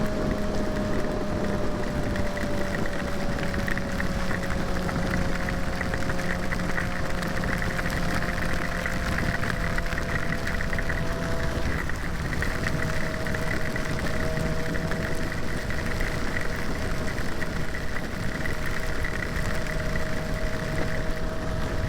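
Kawasaki ZX-6R's inline-four engine running at a steady cruise, with wind rushing over the microphone. The engine note sinks slowly over the first half, breaks briefly about twelve seconds in, then holds steady.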